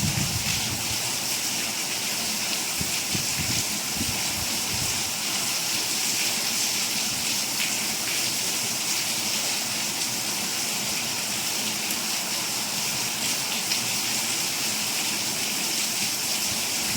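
Steady rainfall: an even, bright hiss that holds without a break.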